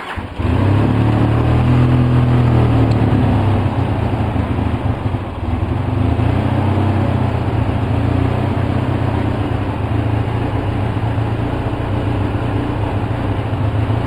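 Polaris Sportsman 700 twin-cylinder four-stroke ATV engine catches about half a second in and runs on partial choke with uneven firing. It runs faster for the first few seconds, stumbles briefly about five seconds in, then settles to a steady run. The rough idle on choke is the fault being chased: the engine dies if the choke is eased.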